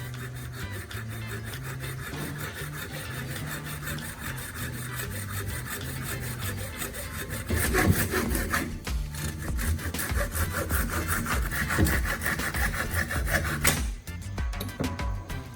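Rapid, even rasping strokes of a tool cutting or abrading material, louder and harsher from about halfway in until shortly before the end.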